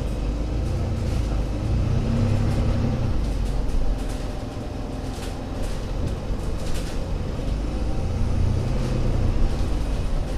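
Diesel engine of an Alexander Dennis Enviro500 MMC Euro 6 double-decker bus running with a low rumble that swells twice, about a second in and again near the end, with light rattles over it.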